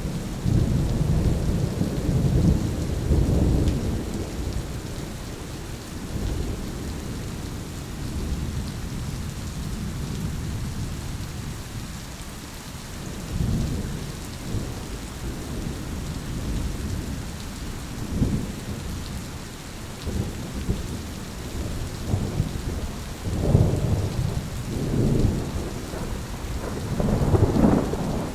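Thunderstorm: steady heavy rain hissing, with rolling rumbles of thunder, the loudest in the first few seconds and again in a series of peals over the last five seconds.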